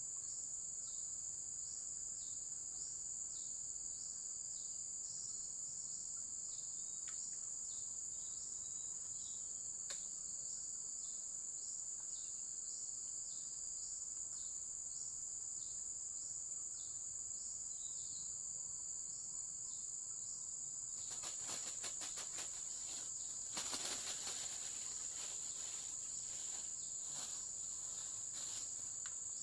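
Insects, crickets among them, trilling steadily at a high pitch, with a repeating chirp beneath the trill. About two-thirds of the way through, a run of crackling clicks starts and lasts to near the end, loudest a few seconds after it begins.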